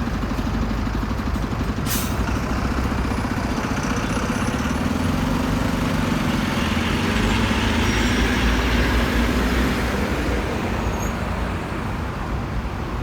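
Heavy rush-hour road traffic with buses and trucks, their diesel engines running steadily. A brief sharp sound comes about two seconds in, and the traffic grows louder in the middle as a heavy vehicle passes close by.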